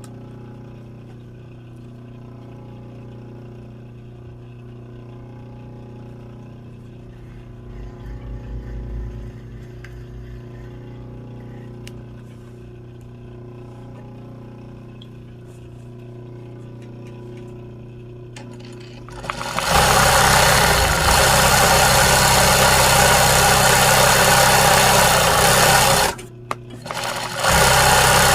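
Sewing machine stitching embroidery: a low motor hum at first, then the machine running at speed from about two-thirds of the way in, stopping briefly near the end and starting again.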